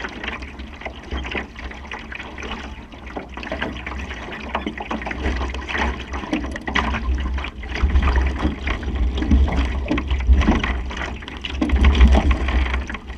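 Water rushing and splashing past a Supernova sailing dinghy's hull under way, with wind rumbling on the microphone. It grows louder about two-thirds of the way through, loudest near the end.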